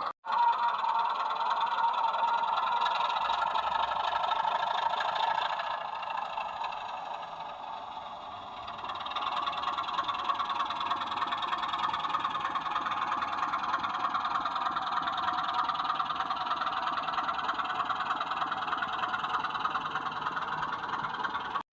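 A sound-fitted 00 gauge model diesel locomotive running, its speaker playing a steady diesel engine drone. The sound fades somewhat about a third of the way through, then comes back up.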